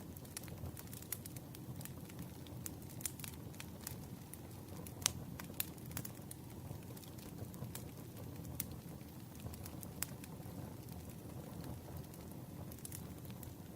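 Campfire burning: a steady low rush of flames with frequent sharp crackles and pops, the loudest pop about five seconds in.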